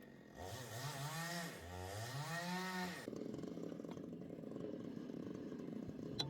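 A motor revs up twice, each time rising in pitch, then settles into a steady rough running sound about halfway through.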